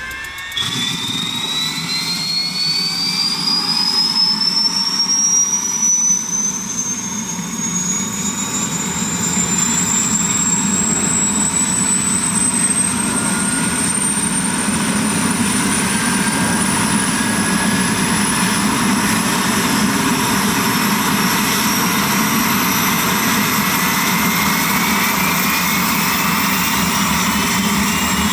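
Bell 407 helicopter's turbine engine spooling up during start: a high whine that climbs steadily in pitch throughout, growing louder over the first ten seconds or so and then holding level.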